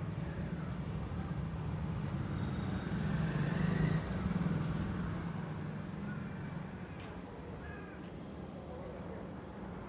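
A motor vehicle's engine rumble passing by, swelling a few seconds in and then fading, with a couple of faint kitten mews in the second half.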